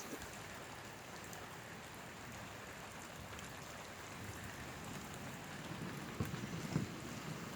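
Steady rain falling, with a low rumble of thunder starting to build near the end.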